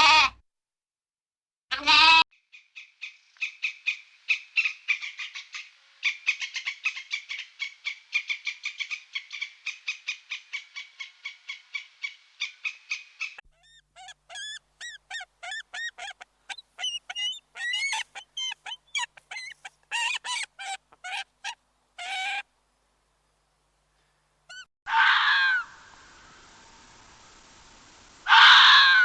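A sequence of animal calls, mostly birds. A long run of rapid, evenly repeated chirps gives way to more varied, pitch-bending chirps. Two loud harsh calls come near the end, with a short call at the very start and another about two seconds in.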